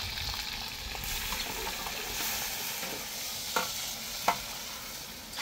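Meat and onion pieces sizzling as they fry in a pot, stirred with a metal ladle. Two sharp clinks of the ladle against the pot come a little past halfway.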